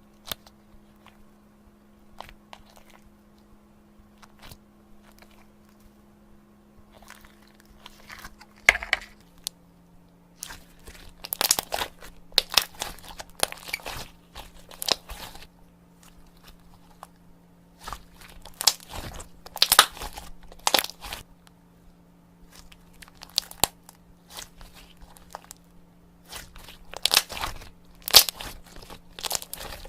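Slime being squeezed and handled, giving crunchy, crackling sounds: a few faint clicks at first, then from about a third of the way in, repeated clusters of sharp crackles.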